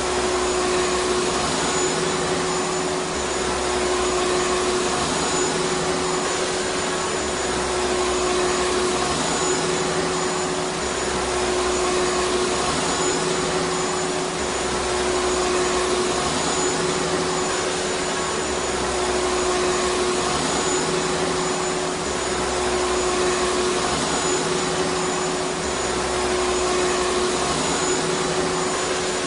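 Vacuum cleaner motor running continuously with an even rushing noise and a steady whine. Underneath, a low hum swells and fades every few seconds.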